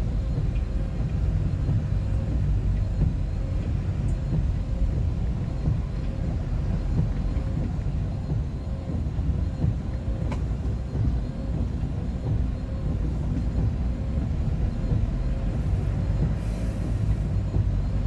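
Steady low rumble of engine and road noise heard inside a vehicle's cabin while driving on a highway, with a faint steady hum and an occasional faint click.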